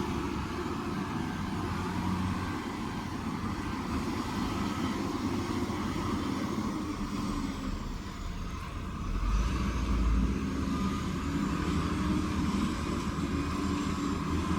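Diesel engine of heavy construction machinery running steadily, with a swell in its low rumble about nine seconds in.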